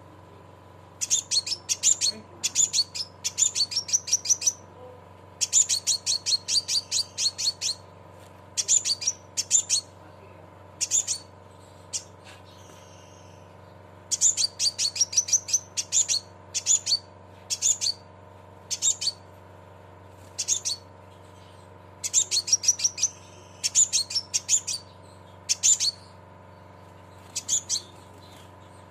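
Scarlet minivet (sepah raja) giving its 'cret cret' call: repeated quick trains of sharp, high chirps, each lasting a second or two, with short pauses between them, over a steady low hum.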